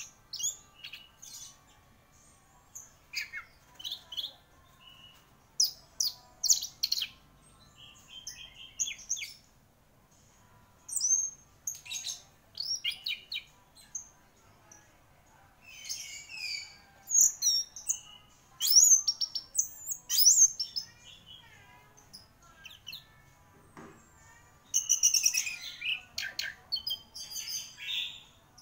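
Orange-headed thrush singing vigorously: short, rapid phrases of sharp, high whistled and chirping notes, many of them quick falling sweeps, broken by brief pauses, with a denser run near the end.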